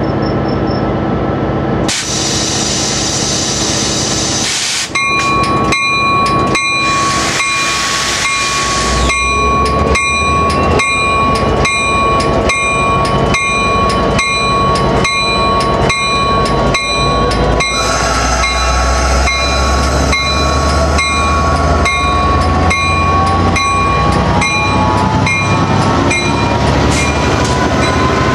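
Coaster commuter train's diesel locomotive approaching and passing close alongside, with a bell ringing steadily about twice a second; the engine rumble grows, and its pitch climbs near the end as the locomotive goes by.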